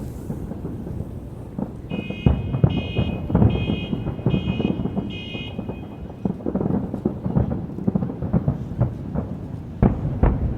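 Fireworks going off in a continuous rumble of low booms and cracks, with two sharp bangs near the end. Between about two and five seconds in, a high electronic beep sounds five times in a steady rhythm.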